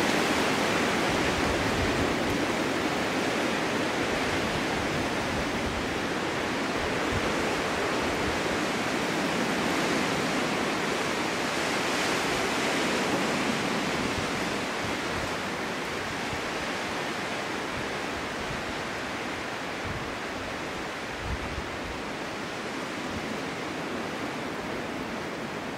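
Snowstorm wind blowing as a dense, rushing noise, with irregular gusts thumping on the microphone, slowly easing in strength over the stretch.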